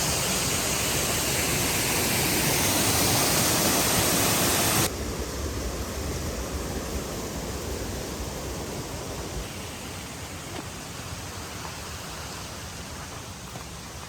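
Steady rushing of running water, loud at first, dropping suddenly about five seconds in to a fainter rush that slowly fades.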